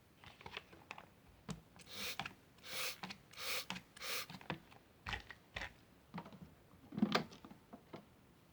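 Plastic clicks and knocks as a toy washing machine is handled, with four short hissing rushes about two to four seconds in and a louder knock about seven seconds in.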